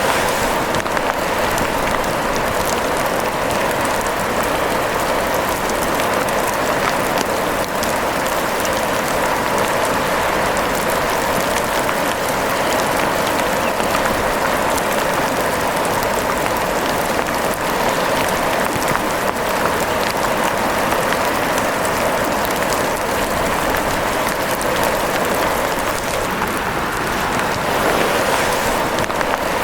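Steady rain falling: an even, unbroken hiss of many small drops.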